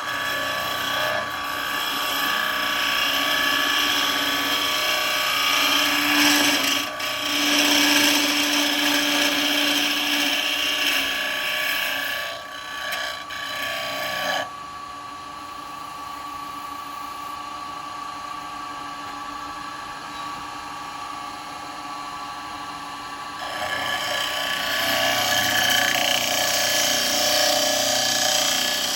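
Wood lathe spinning a bowl blank while a bowl gouge cuts the wood with a steady hissing shear over a running motor hum. The cutting stops about halfway, leaving only the lathe running, and starts again near the end.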